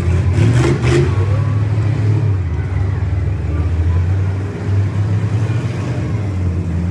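Several demolition derby cars' engines running loud with a deep, steady rumble as they circle slowly to line up, with a brief louder burst of revving in the first second.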